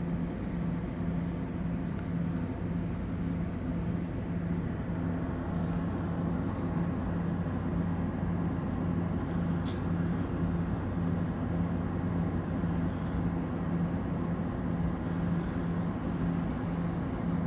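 Bombardier ALP-45DP dual-mode locomotive running in diesel mode: a steady, even engine throb with no change in pace. There is one brief click near the middle.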